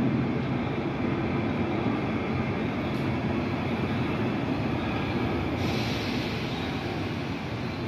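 Train running with a steady rumble; a higher hiss comes in about five and a half seconds in.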